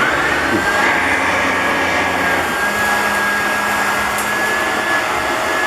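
Clarke Alto 530 upright vacuum cleaner switching on: the motor's whine climbs quickly in pitch, then settles into a steady high-pitched whine over a strong rush of airflow.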